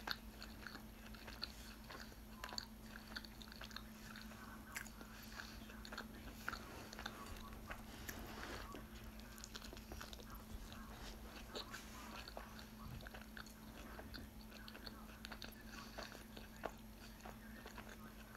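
A person biting into and chewing a chicken burrito: many small, soft, wet mouth clicks and smacks, over a faint steady low hum.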